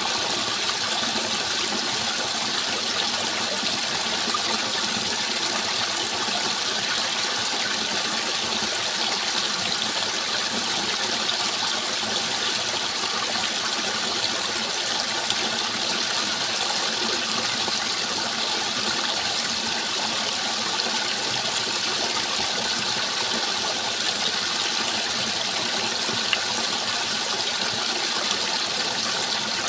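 Steady rushing water, like a stream or small waterfall, flowing without a break.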